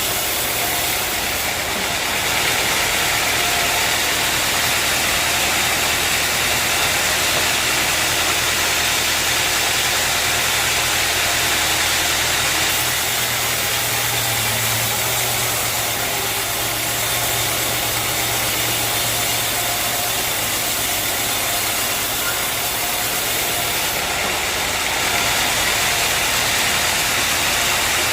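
Sawmill machinery running steadily, a continuous engine-like hum under an even hiss, with only small swells in level.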